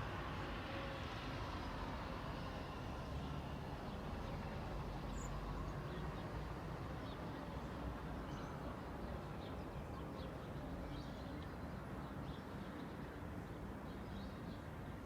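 Steady hum of distant road traffic, with faint, short bird chirps scattered through the second half.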